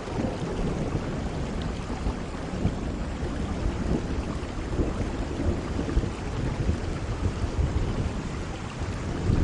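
Steady heavy rain with a low, rolling rumble of thunder underneath.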